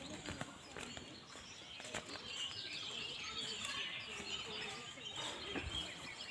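Birds chirping in the background, with scattered short clicks and knocks.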